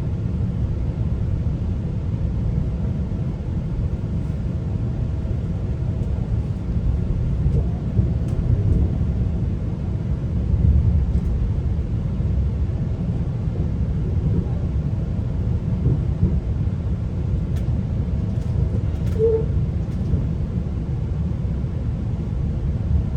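Steady low rumble of a GO Transit commuter train running on the rails, heard from inside a bilevel passenger coach, with a faint steady hum through the first half and a few light clicks.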